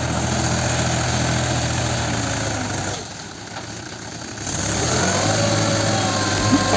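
Mahindra tractor's diesel engine running steadily, dropping off about three seconds in and picking up again a second and a half later.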